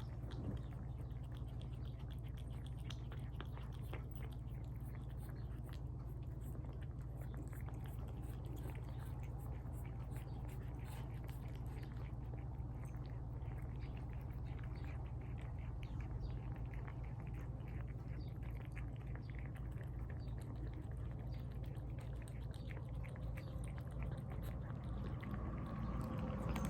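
Cats eating tuna from bowls: close-up wet chewing, smacking and licking as many small irregular clicks, over a steady low hum.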